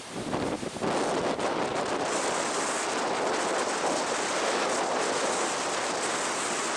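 Strong wind rushing steadily and buffeting the microphone.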